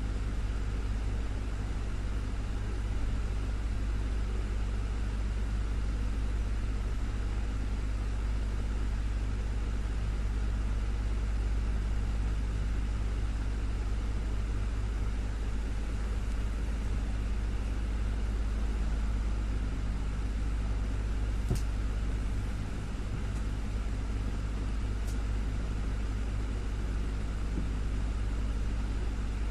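Desktop fan running steadily, a constant whirring hum with a strong low drone. Two faint ticks come about three-quarters of the way through.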